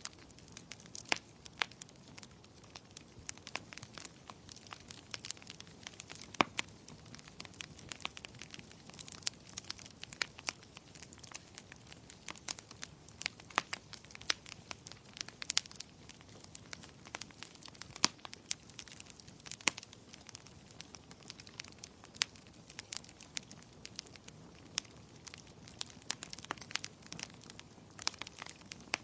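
Wood fire burning in a fireplace: frequent sharp, irregular crackles and pops over a low steady hiss of the flames.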